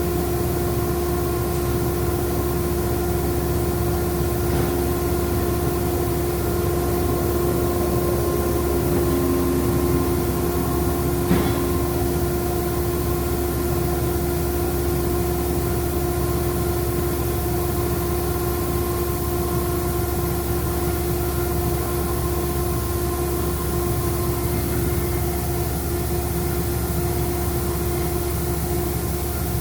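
Ingersoll Rand 50 hp air-cooled rotary screw air compressor running steadily under load, pumping up the tank's pressure, with a constant hum and whine. There is one short click about eleven seconds in.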